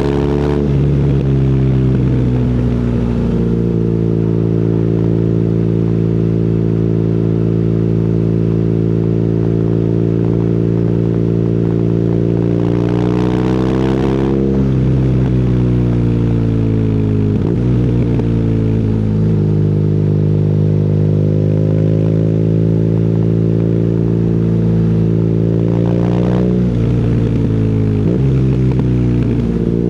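BMW R nineT's boxer twin through an Akrapovic exhaust, running under way on the road. The revs climb and drop back several times, as on gear changes, and the engine note steadies between.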